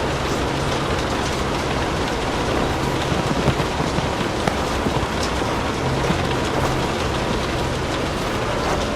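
Steady rain, with scattered small ticks and a low rumble underneath.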